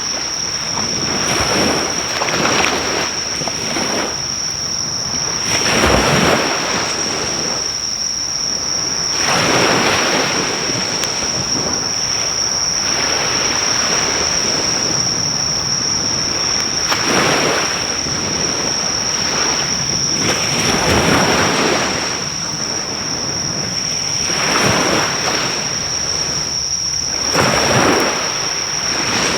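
Sea waves breaking on a beach in repeated surges every few seconds, with insects keeping up a steady high-pitched chirring throughout. A driftwood fire crackles faintly underneath, hard to hear over the surf.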